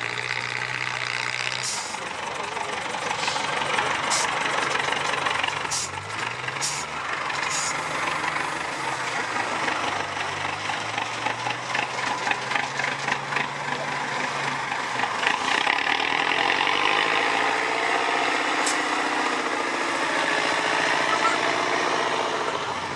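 Off-road trial truck engine running under load, its pitch rising and falling as it revs up and drops back several times. A few sharp knocks sound in the first eight seconds or so.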